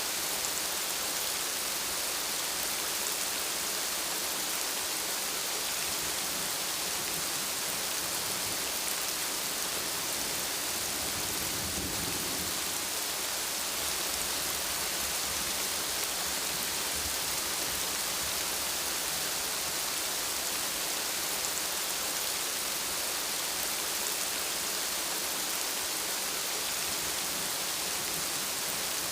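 Steady rain falling, an even hiss with no let-up, with a brief faint low rumble of thunder about twelve seconds in.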